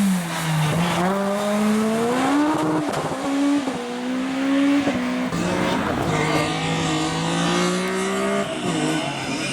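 Race car engine driven hard through a slalom course, its revs climbing and then dropping sharply several times as it shifts gear and lifts off, with tyres squealing.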